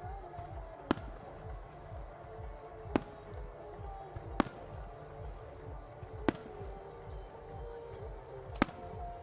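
Aerial firework shells bursting high overhead: five sharp bangs at uneven intervals, over music with held, sliding notes.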